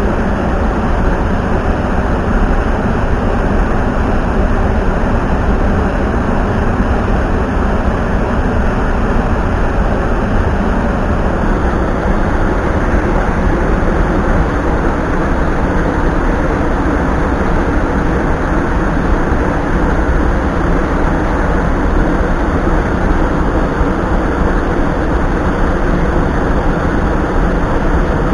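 Mountain stream water rushing steadily over rocks, a loud, even rush with no breaks.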